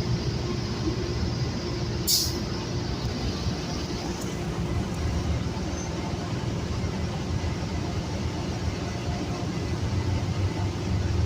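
City transit bus running along the road: a steady engine and road rumble, with a short hiss of air about two seconds in.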